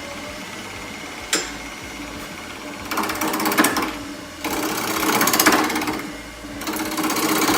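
Wood lathe running with a steady hum, a sharp knock about a second in, then a turning gouge cutting into a spinning birch burl bowl blank in three passes, each a loud rough scraping with a fast even flutter.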